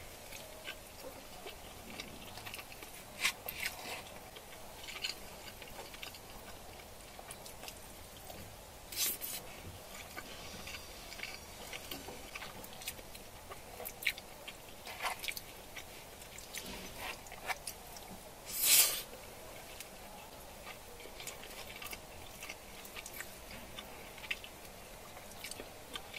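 A person chewing food close to the microphone, with scattered short clicks and a few louder sharp noises, the loudest about two-thirds of the way through.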